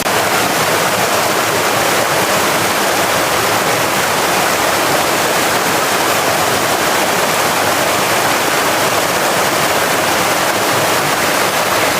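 Steady rushing water: a dense, even hiss with no separate splashes or drops standing out.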